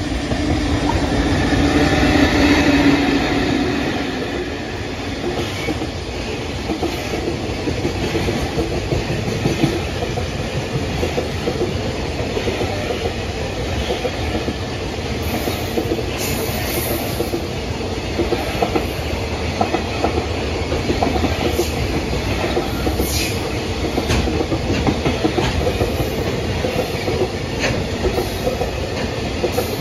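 Train running on the rails: steady rolling rumble with the clickety-clack of wheels passing over rail joints. It swells louder for a few seconds near the start.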